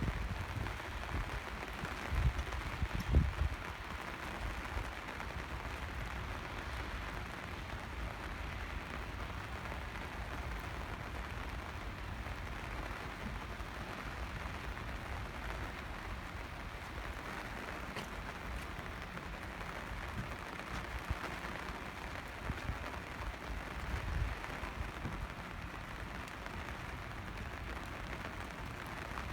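Steady rain falling, a continuous even patter, with a few low thumps about two to three seconds in and again later on.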